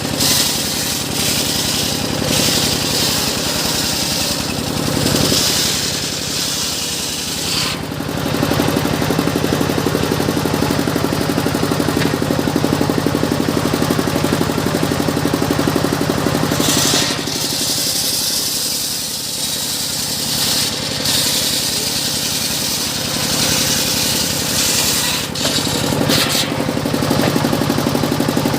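Engine-driven circular sawmill running as its blade cuts through a teak log: a steady engine drone underneath, with a high cutting hiss that comes and goes, easing off about a quarter of the way in and returning past halfway.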